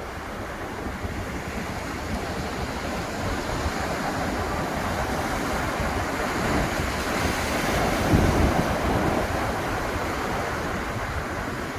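Ocean surf washing on the beach. The noise of the breaking waves builds to its loudest about eight seconds in, then eases off.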